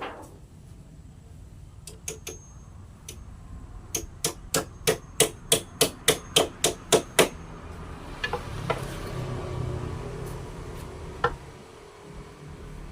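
Hammer striking wood: a couple of single knocks, then a quick run of about a dozen blows at roughly four a second, followed by softer rubbing and handling noise and one more knock.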